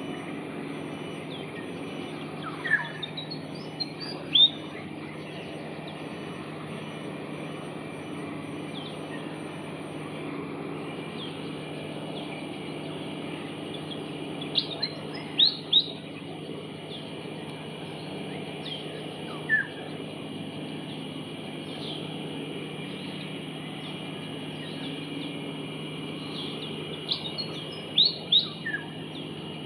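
Adult pied fantail calling: short, sharp high notes, singly and in quick groups of two or three, with softer chirps in between. A steady low hum runs underneath.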